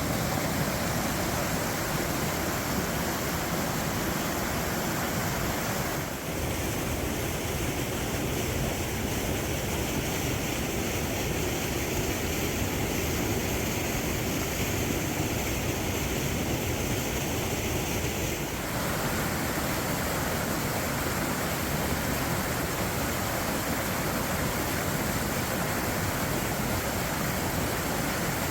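Steady rushing of a waterfall in strong flow, Eagle Falls pouring over its ledge into the river. The tone of the rush changes abruptly twice, about six seconds in and again around eighteen seconds.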